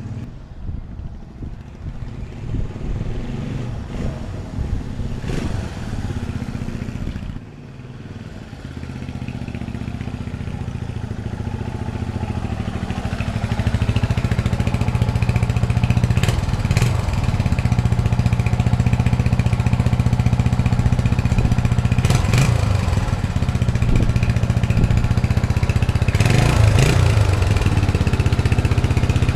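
Honda XL250S single-cylinder four-stroke motorcycle engine running with a freshly replaced timing chain and tensioner. It is uneven for the first several seconds, then grows louder and runs steadily, with a few brief surges.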